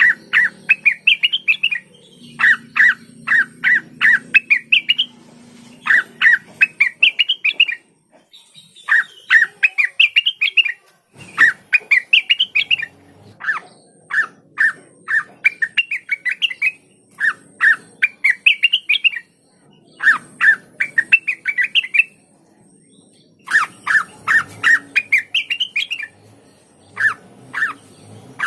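Green leafbird (cucak wilis) singing loudly in bouts of a few seconds: quick repeated sharp notes running into a string of rising chirps, with short pauses between bouts.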